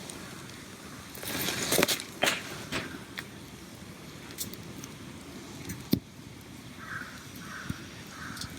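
A few crackling snaps and a brief rustle in the first few seconds, then a crow cawing four times, evenly spaced, near the end.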